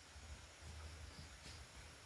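Near silence: a faint, uneven low rumble of wind buffeting the microphone, with a couple of faint ticks.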